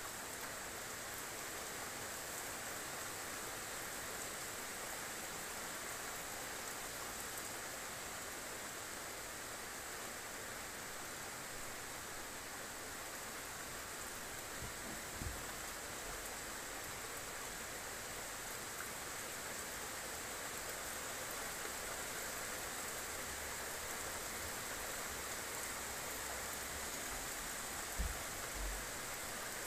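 Steady rain falling on roofs, an even hiss throughout. A dull low bump sounds about halfway, and two more near the end.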